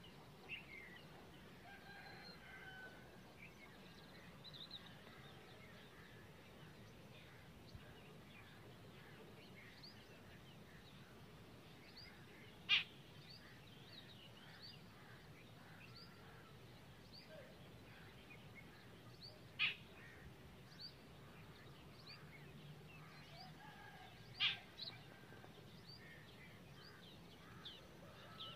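Birds chirping faintly, many short high chirps throughout, with three much louder sharp single notes spaced several seconds apart in the second half.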